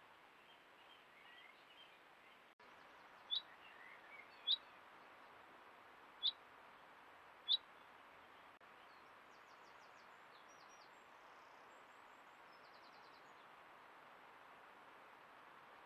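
A bird calling: four short, sharp chirps about a second apart, with fainter high chirps a little later, over a faint steady hiss.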